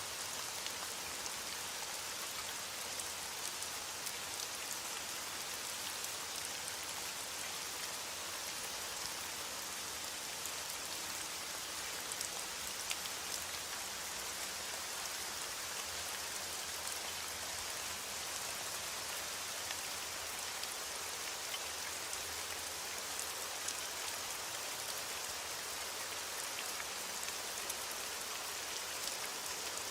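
Steady rain falling on a surface, an even hiss with faint ticks of individual drops.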